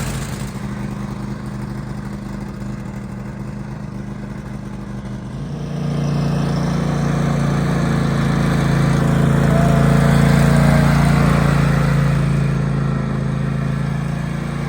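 Kohler KT745 V-twin engine of a Craftsman Pro 8300 riding tractor running steadily after starting on a newly fitted starter; it gets louder about five and a half seconds in and holds there.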